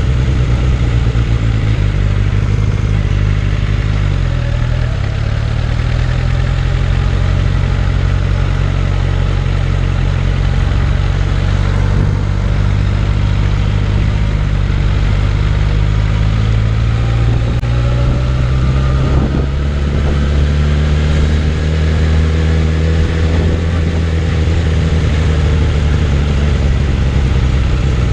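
Suzuki Bandit 600's inline-four engine running steadily on the move, its note dipping about four seconds in and rising again in places later on as the throttle changes.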